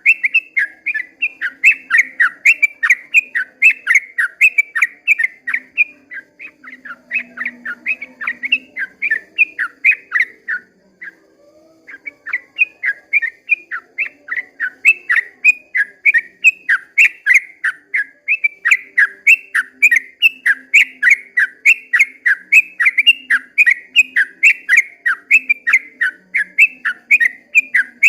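Yellow-vented bulbul (trucukan) singing a long, rapid run of whistled notes, about three or four a second. It breaks off briefly about eleven seconds in, then carries on.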